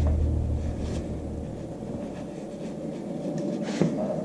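A low hum that fades out in the first second and a half, then faint rubbing and handling of metal tractor parts with a light knock near the end.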